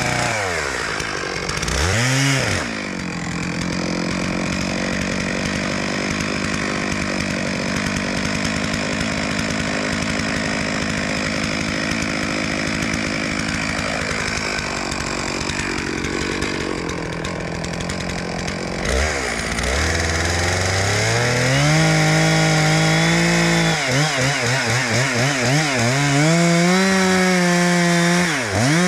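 Chainsaw cutting a second-growth spruce. The engine revs sharply twice at the start, runs steadily for about ten seconds, then its speed rises and falls again and again near the end.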